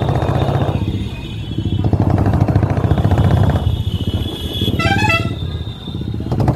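Motorcycle engine running under way, its level dipping twice as the throttle eases, with a brief pitched tone sounding about five seconds in.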